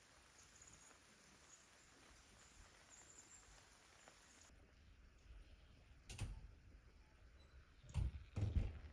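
Faint steady hiss, then three dull thumps about six, eight and eight and a half seconds in.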